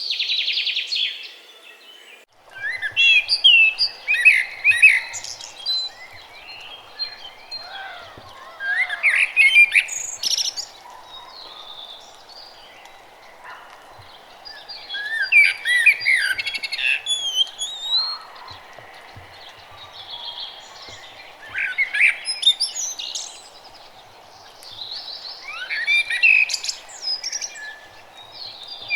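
Songbirds singing in woodland: quick warbling song phrases come in clusters every few seconds over a steady low background hiss. A buzzy trill in the first two seconds cuts off suddenly.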